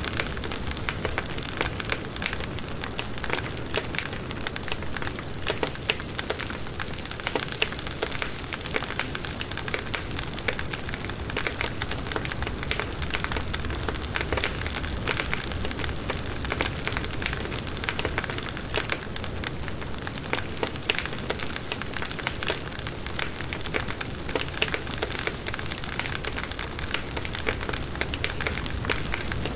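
Wood campfire burning with steady crackling and frequent small pops from the firewood.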